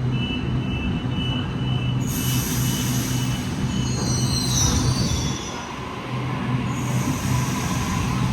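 Sydney Trains electric suburban train moving through the platform with a steady low rumble. About two seconds in, a high hiss sets in, with wavering metallic wheel squeal for a couple of seconds and more hiss near the end.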